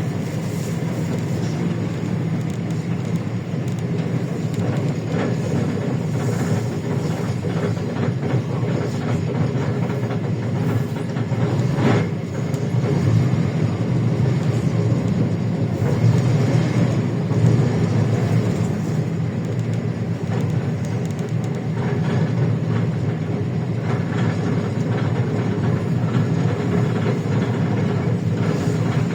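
A LiAZ-677M city bus under way, heard from inside the cabin: its V8 petrol engine drones steadily over the body and window rattles, with one sharp knock about twelve seconds in.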